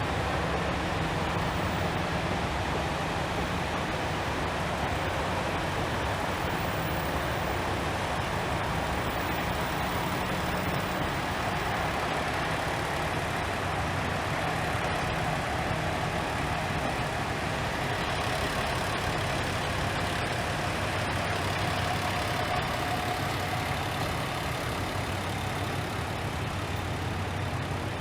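KiHa 40-series diesel railcar engines idling with a steady low hum.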